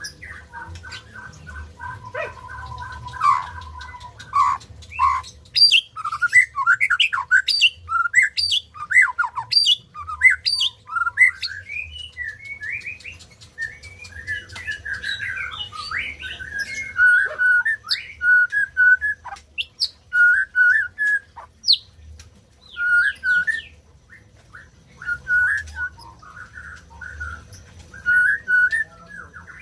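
White-rumped shama (murai batu) singing. It starts with a varied run of loud whistles, quick rising and falling glides and rapid chattering notes, then settles about halfway through into a short whistled phrase repeated again and again.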